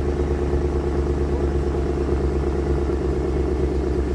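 2014 GMC Yukon XL's V8 idling steadily shortly after a remote cold start in freezing weather, with an even, fast exhaust pulse.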